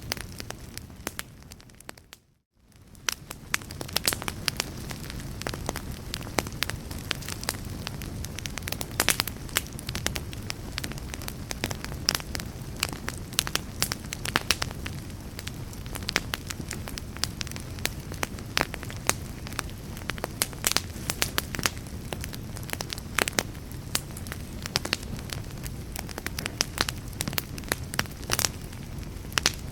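A fire crackling, with a steady low rumble and frequent sharp pops and snaps. About two seconds in, the sound briefly fades out to near silence and then fades back in.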